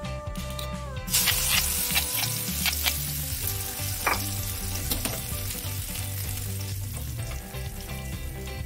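Chopped shallot and red chili hitting hot oil in a wok: a loud sizzle starts suddenly about a second in and goes on as a steady frying hiss.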